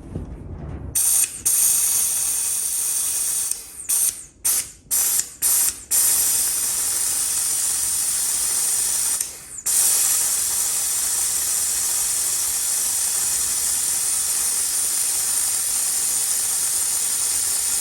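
Air-powered vacuum brake bleeder hissing as compressed air runs through it to suck brake fluid from a motorcycle's front caliper bleed nipple. First comes a string of short blasts, then a long steady hiss that breaks off briefly about halfway through.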